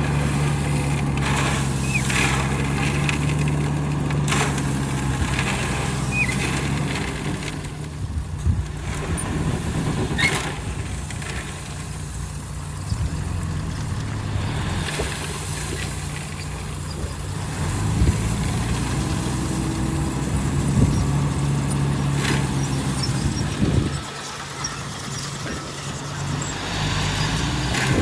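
Heavy diesel machinery working: the engines of dump trucks and a Komatsu D41P bulldozer running as a steady low drone, with scattered short knocks. The sound drops noticeably near the end.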